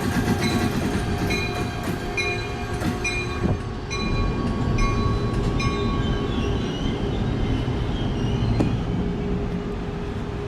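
A train running through the station, with a steady rumble of wheels on rail. Over the first half there is a run of short, evenly spaced high rings, about one a second, followed by a thin wavering squeal from the wheels.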